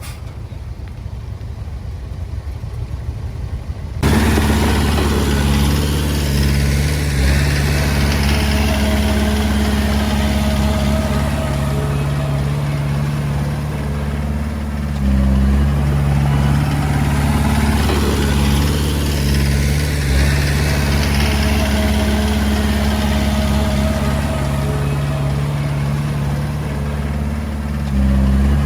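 Komatsu D20A bulldozer's diesel engine running steadily at working speed, with a low, even drone and small shifts in engine speed. For the first few seconds only a fainter rumbling noise is heard, then the engine comes in abruptly and loud.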